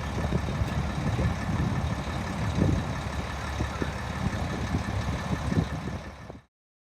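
A large truck's engine running with a low, uneven rumble; the sound cuts off abruptly near the end.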